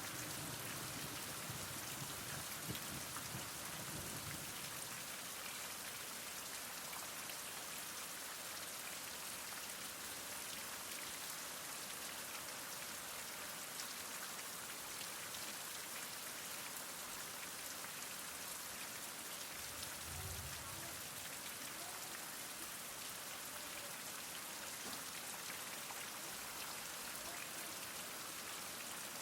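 Heavy rain falling steadily: an even hiss dense with the patter of individual drops.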